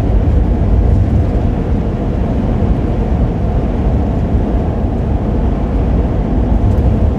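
Steady low rumble of a gasoline vehicle driving at highway speed in strong wind, heard from inside the cab: road, wind and engine noise together, with the engine held at about 2,800 RPM.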